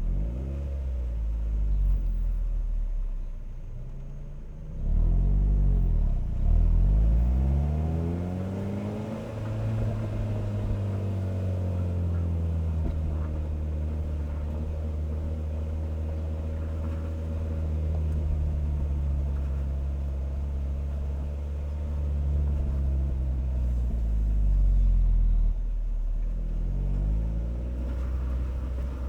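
Car engine and exhaust while driving, picked up by a microphone at the rear bumper: the engine note climbs and drops a few times about five to seven seconds in as the car accelerates, holds steady at cruise through the middle, and falls away again near the end.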